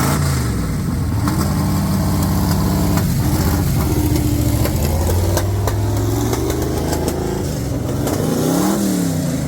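A car engine running and being revved: a quick blip of the revs right at the start, the revs held higher and fairly steady through the middle, then another rise-and-fall blip near the end.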